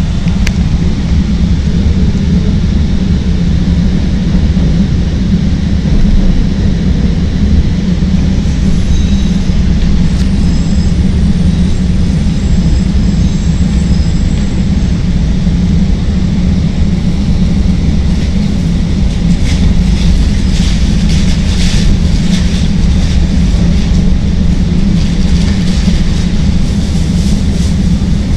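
Chicago Transit Authority Green Line elevated train running between stations, heard from inside the car: a steady heavy rumble of wheels and motors on the track. Over the last ten seconds or so, a rattling, hissing clatter from the wheels joins it.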